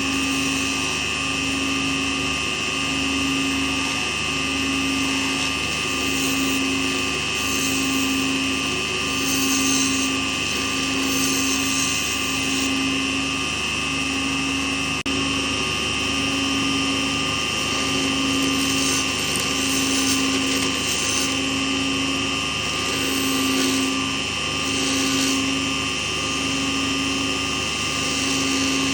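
Small lathe running steadily, a constant motor whine with a low hum that pulses about once a second, and stretches of higher hiss now and then.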